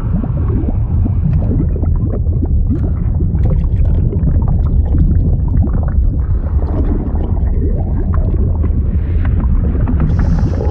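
Liquid sound effect: a steady low rumble under continuous gurgling and bubbling, full of small pops, with a higher hiss coming in near the end.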